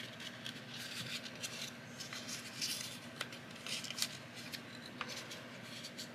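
Faint rustling and light crinkling clicks of fan-folded paper being handled and refolded.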